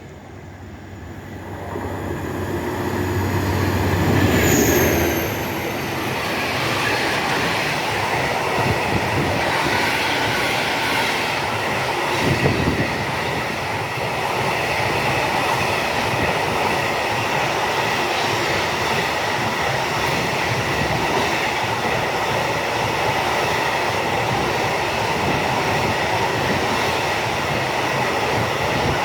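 Freight train passing: the locomotive comes up with a low hum, growing louder to about four seconds in, where a high tone drops in pitch as it goes by. Then the long string of freight wagons rolls past with steady rumbling and clattering of wheels over rail joints and a high steady ring from the wheels.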